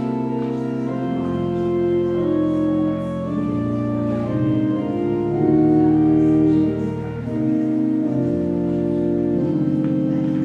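Organ music: sustained chords moving slowly from one to the next, as in a prelude.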